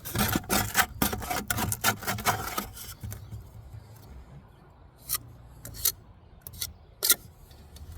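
Brick trowel scraping mortar onto the ends of a brick, buttering it: a quick run of scrapes for the first couple of seconds, then a few separate sharp taps.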